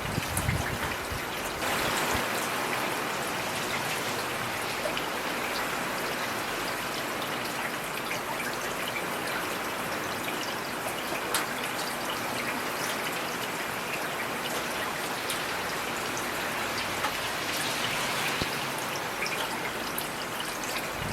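Heavy rain falling steadily, with individual drops ticking on a hard surface and a brief low thump just after the start.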